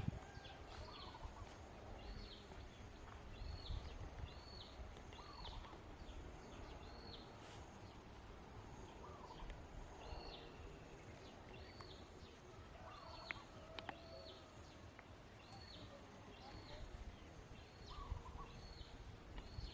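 Faint rainforest ambience: a small bird's short arched call repeats about once a second, with a lower call now and then, over a soft steady background hiss.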